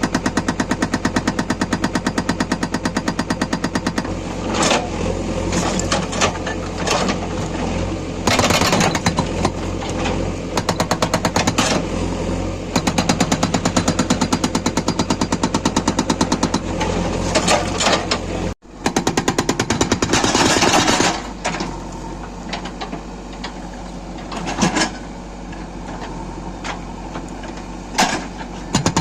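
Hydraulic rock breaker on a JCB 3DX backhoe loader hammering stone in long runs of rapid, evenly spaced blows. Between the runs are pauses with irregular knocks and louder noises.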